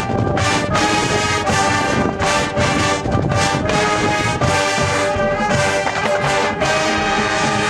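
High school marching band playing, its brass section sounding full chords over regular percussion strokes.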